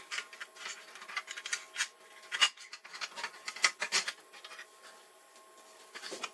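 Irregular scraping and rubbing with several sharp clicks, as of hands and tools working on a monitor's casing or parts; it quiets after about four and a half seconds.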